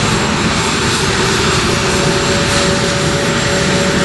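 An A-10 Thunderbolt II's twin General Electric TF34 turbofan engines running: a loud, steady rush with a steady whine in it.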